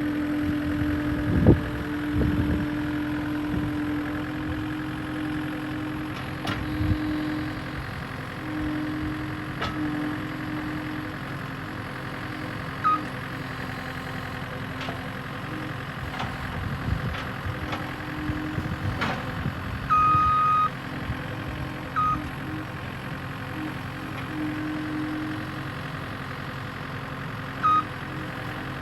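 Skid steer engine running steadily, with a few knocks in the first seconds. Short high beeps sound several times later on, one of them longer, from the machine's warning alarm.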